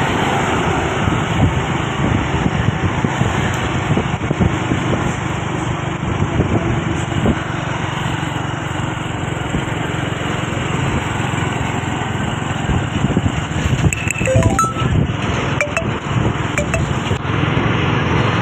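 Steady road noise of vehicles and engines running, with a few light clinks near the end.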